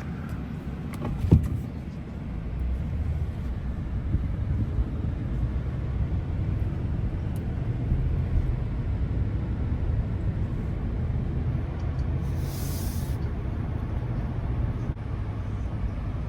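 2024 Ram 1500's Hemi V8 and tyre noise as the pickup drives onto the interstate: a steady low rumble that grows louder after a couple of seconds. There is a sharp knock about a second in and a brief hiss near the end.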